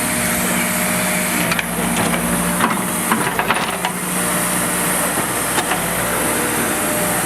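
Diesel engine of a heavy earthmoving machine running steadily, with a cluster of sharp knocks and clanks about one and a half to four seconds in and one more a couple of seconds later.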